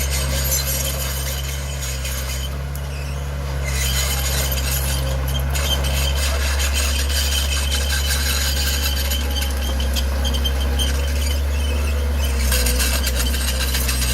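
Bulldozer's diesel engine running steadily, with a high squealing and scraping noise on top of it.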